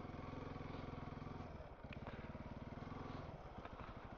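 Honda CRF300L's single-cylinder four-stroke engine running at low, steady throttle on a loose dirt trail. It dips briefly a little before two seconds in and eases off after about three seconds.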